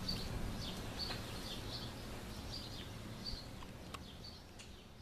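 A bird chirping over and over, a short high note about once or twice a second, over low outdoor background noise. It all fades out near the end.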